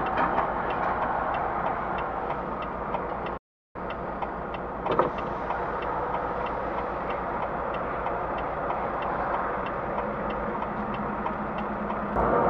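Steady engine and road noise inside a truck's cab, with a turn-signal indicator ticking evenly about two to three times a second. The sound cuts out completely for a fraction of a second about three and a half seconds in.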